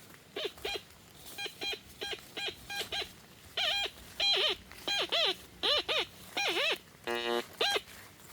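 Metal detector giving a quick run of short beeps whose pitch wavers up and down as the coil sweeps over a buried target, growing louder about halfway through.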